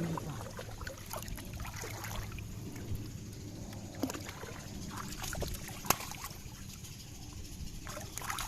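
Water sloshing and trickling, with scattered light knocks and clicks and one sharper click about six seconds in.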